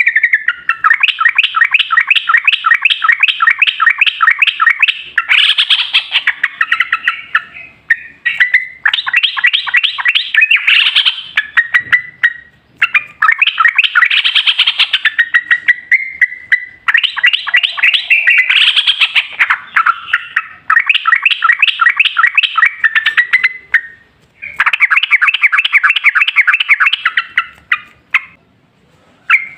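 Yellow-vented bulbul (trucukan) singing its long rapid-fire song: runs of fast, repeated chattering notes several seconds long, broken by short pauses. It stops briefly near the end.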